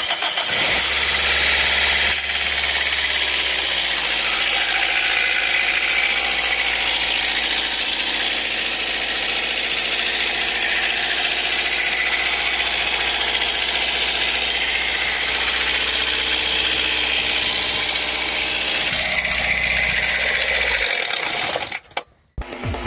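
Toyota 3ZZ-FE 1.6-litre four-cylinder engine running steadily with the rattle of a faulty VVT-i cam-phaser coupling; the sound cuts off near the end.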